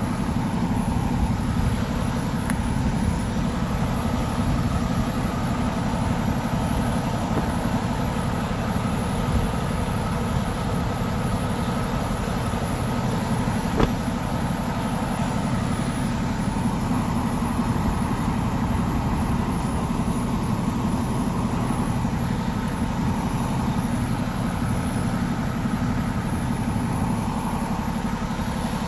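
A vehicle engine idling steadily, with one sharp click about halfway through.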